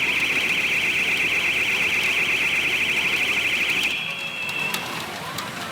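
Pachinko machine's electronic sound effect: a loud, fast-warbling alarm-like tone that holds steady and cuts off about four seconds in, with a fainter thin tone trailing briefly after it.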